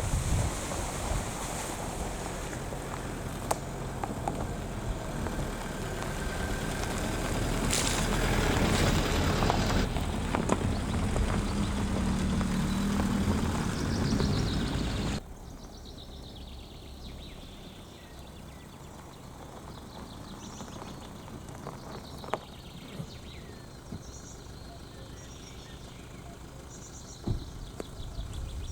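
A vehicle driving, with steady engine and road noise, for about fifteen seconds. Then a sudden cut to quieter outdoor ambience with scattered small bird chirps.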